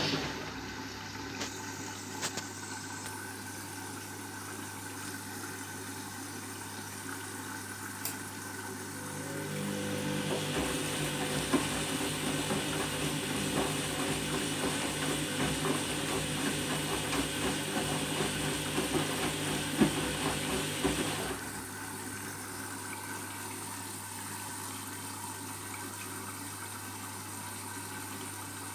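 Candy washing machine in its deep rinse, running with a steady low hum. About a third of the way in, water starts rushing into the drum and runs until it cuts off abruptly about three quarters of the way through.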